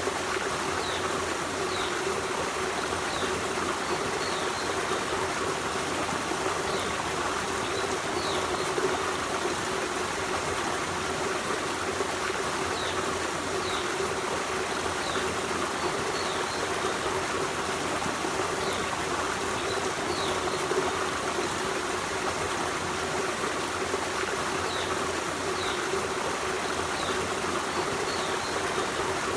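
Forest stream running steadily over stones, an even rushing and trickling of water. Faint, short, high bird chirps come and go over it several times.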